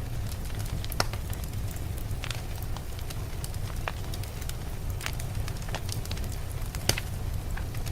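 Wood fire in a fireplace crackling with irregular sharp pops, two louder ones about a second in and near the end, over a steady low rumble of blizzard wind.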